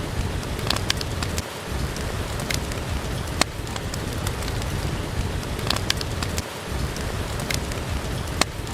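Steady rain with scattered, irregular sharp pops of a crackling wood fire.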